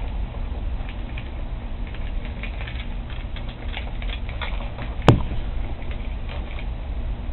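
Volvo Penta boat engine running with a steady low rumble, with scattered light clicks and one sharp knock about five seconds in.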